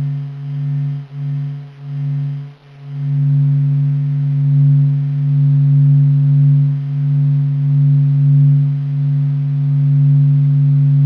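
A low, steady humming drone with several overtones, the kind of sound presented as NASA's recorded 'sound of space'. It pulses in volume a few times at first, then settles into a sustained tone that swells gently.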